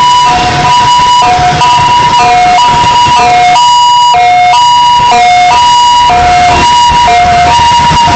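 Emergency-vehicle siren in a two-tone hi-lo pattern, switching between a high and a low note about twice a second, loud and close. A low road and engine rumble runs underneath.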